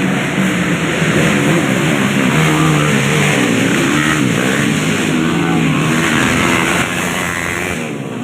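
Racing motorcycle engines running hard, their pitch rising and falling as they rev and pass.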